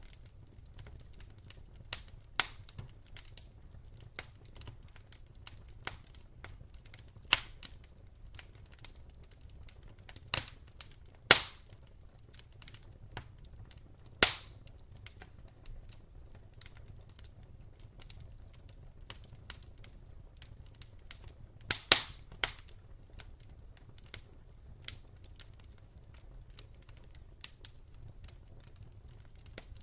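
Campfire crackling: burning wood gives off irregular small clicks and ticks, with louder sharp pops every few seconds, over a faint low rumble of the flames.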